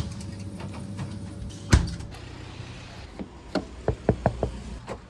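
Steady low engine and road hum inside a moving car, with a single heavy thump about two seconds in, then a quick run of light knocks and clicks.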